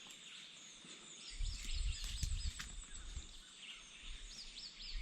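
Birds chirping, a short hooked call repeated many times, over outdoor background noise. A low rumble on the microphone runs for a second or two near the start.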